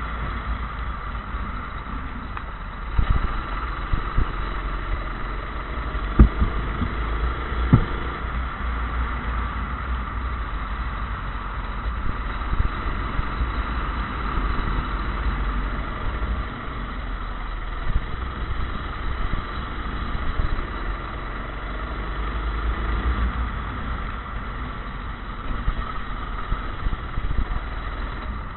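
Go-kart engine running at a steady pitch over a low rumble, with a few sharp knocks a few seconds in.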